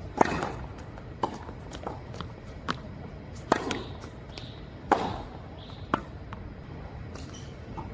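Tennis rally: balls struck by rackets and bouncing on the court, a string of sharp pops about one every second or so, the loudest near the start and around three and a half and five seconds in.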